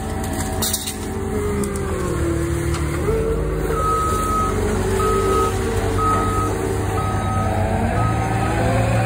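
Diesel engine of a heavy land-clearing machine running under changing load, its pitch dipping and then rising about three seconds in. From about four seconds in, its backup alarm beeps about once a second.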